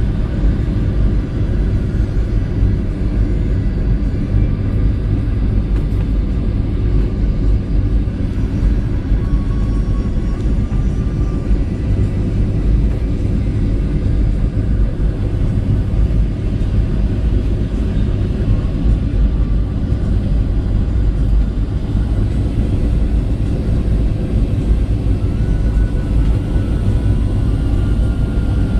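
Passenger airliner cabin noise on approach to landing: a steady, loud rumble of engines and rushing air heard from inside the cabin, with a few faint steady tones above it.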